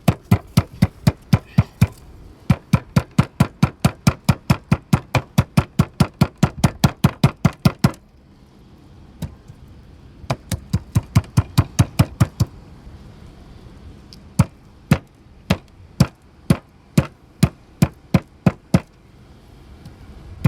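Rapid, even knocking, about four or five blows a second, as an alikreukel (giant periwinkle) foot is beaten to soften it for bait. The blows stop for about two seconds near the middle, then start again at a slower, more uneven pace.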